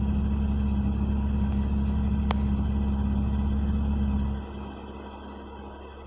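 1992 Geo Storm GSi's 1.8-litre DOHC four-cylinder idling steadily, heard inside the cabin, with a single sharp click a little after two seconds. About four seconds in, the low rumble drops sharply to a much quieter steady hum.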